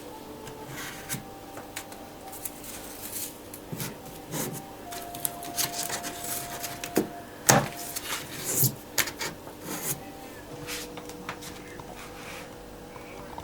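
Hand work with masking tape and a painted baseboard strip: irregular rubs, tape rasps and small knocks as the strip is taped in place, with a couple of sharper knocks a little past the middle.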